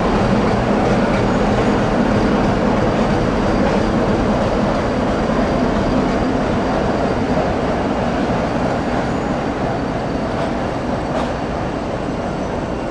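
Passenger multiple-unit train moving along the station track: a steady low hum and rumble that eases off slightly toward the end.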